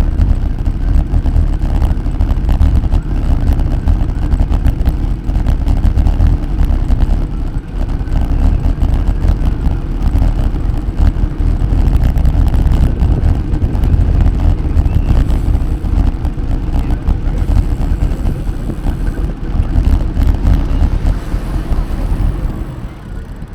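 Wind buffeting the microphone of a camera on a moving bicycle: a loud, steady low rumble that eases off near the end.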